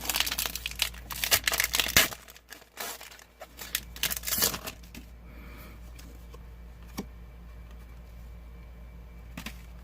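Foil wrapper of a Pokémon Burning Shadows booster pack crinkling and tearing open, in two bursts over the first few seconds, followed by a couple of light taps.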